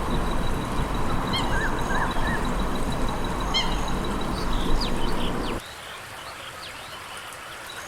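Eurasian coots calling, a loud harsh honking and crackling that cuts off suddenly about five and a half seconds in, leaving fainter background with high chirps.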